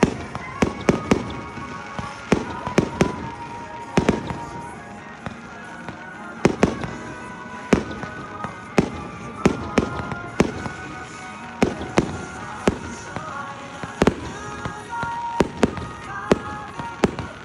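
Aerial fireworks bursting: a rapid, irregular series of sharp bangs, often several in quick succession, with brief pauses between clusters.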